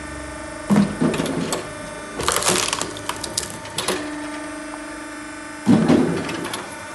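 Hydraulic firewood splitter running with a steady hum while logs crack and split apart under the pressure of its ram, with four loud splitting cracks.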